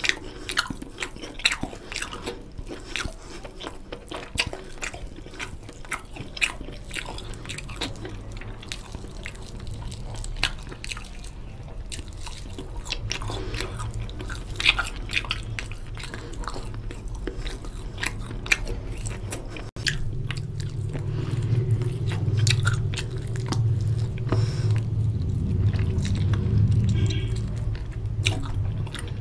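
Close-miked wet chewing and lip smacking of oily mutton curry and rice eaten by hand, with irregular short mouth clicks throughout. A low rumble joins under the chewing about two-thirds of the way through.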